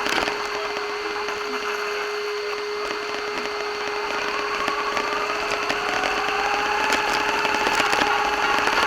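Small electric RC car motor whining, its pitch rising and falling with the throttle, over a steady hum and a constant crackle of the tyres running over rough, gritty ground.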